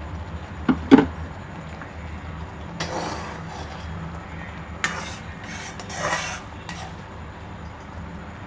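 Metal ladle knocking against and scraping a pan of boiling jaggery syrup: two sharp knocks about a second in, then stirring scrapes and clinks.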